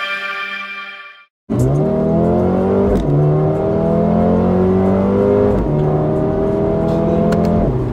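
Mercedes-AMG CLA 35 4Matic's 2.0-litre turbocharged four-cylinder accelerating hard through the gears: starting about a second and a half in, the engine note rises, drops at two upshifts about three and five and a half seconds in, and climbs again each time before cutting off near the end.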